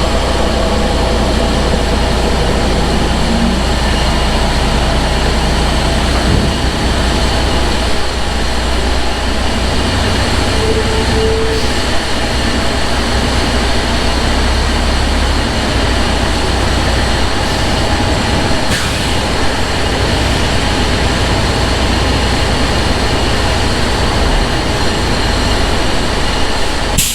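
Semi truck driving: a steady engine drone and road noise with a deep low rumble.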